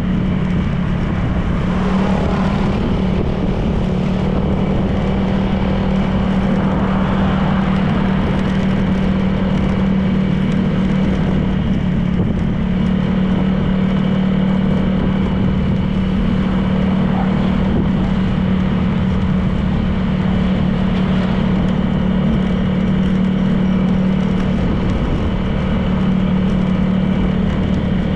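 A 2023 Honda PCX 160 scooter's single-cylinder engine runs at a steady, unchanging pitch, heard from on board the moving scooter with road and wind noise.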